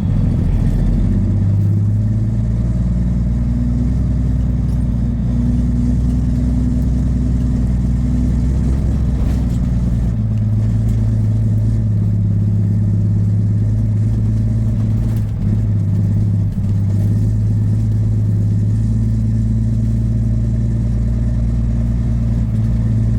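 Peterbilt semi truck's Cummins diesel engine running under load as the truck drives up a small hill. It is a steady low drone that shifts in pitch about ten seconds in.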